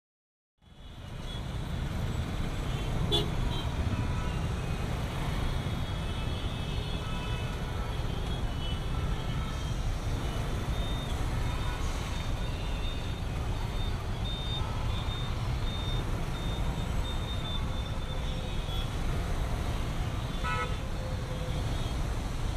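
Road traffic noise with a heavy low rumble, fading in about half a second in, and vehicle horns honking through it, including a run of short toots around the middle and another horn near the end.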